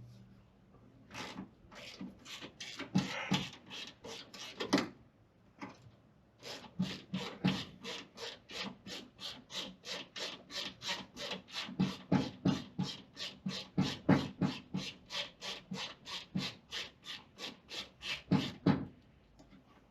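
A hand tool worked back and forth in quick, even strokes, about three a second, after a few irregular strokes and a short pause near the start.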